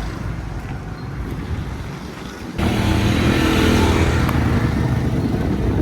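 Motor engine running with a low rumble; about two and a half seconds in the sound jumps abruptly louder and a steadier engine hum comes forward.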